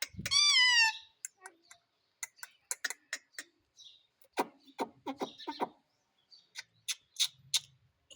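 Indian ringneck parrot giving one loud call that falls in pitch in the first second, followed by a scattered run of short clicks and chirps.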